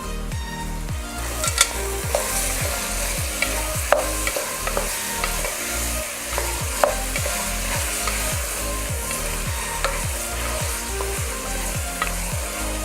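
Chicken pieces with onions and turmeric sizzling in hot oil in a pan while being stirred, with a few sharp knocks of the spoon against the pan, the loudest about 1.5, 4 and 7 seconds in. The raw chicken is being fried until its raw smell goes.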